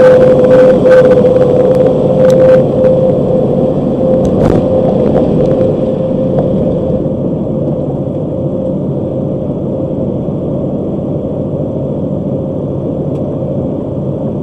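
Steady road noise inside a car cruising at highway speed: tyre and engine rumble with a constant drone, a few light clicks in the first few seconds, easing slightly about halfway through.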